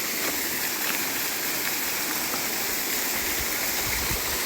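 Waterfall's rushing water: a steady, even hiss, with a few faint low rumbles about three to four seconds in.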